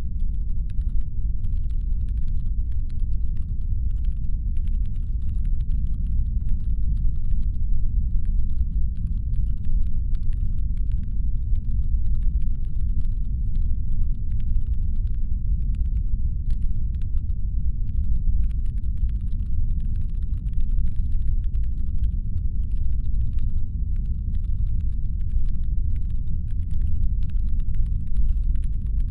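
Deep, steady brown-noise rumble standing in for a spaceship's engine hum, with faint irregular light clicks scattered over it.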